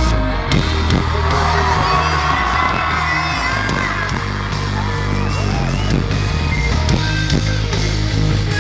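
Live pop band playing with heavy bass and drum hits that come in at the start, while the audience whoops and yells over the music in the first few seconds.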